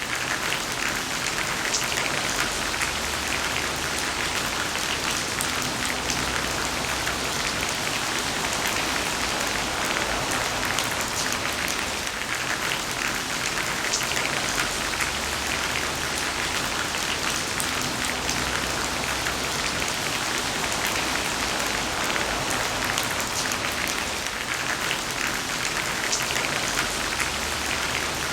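Heavy rain falling steadily, a dense even hiss of many fine drop impacts.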